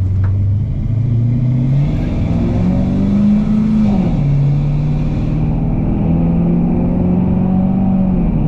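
LS V8 engine of a 1981 Chevrolet C10 pickup accelerating. Its pitch climbs, drops about four seconds in as it shifts up, then climbs again.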